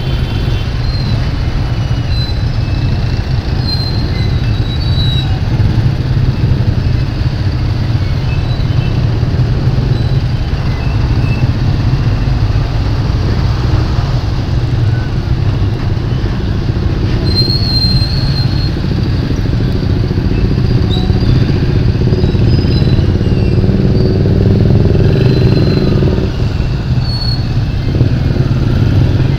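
Motorcycle running while riding through traffic: a steady loud low rumble, with short high-pitched squeaks now and then.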